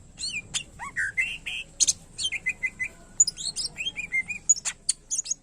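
Green leafbird (cucak ijo) singing a rapid, varied stream of whistles, chirps and sweeping notes, with phrases mimicked from other birds worked in.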